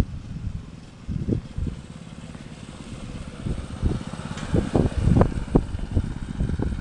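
Dirt bike engine running some way off, growing louder over the last few seconds.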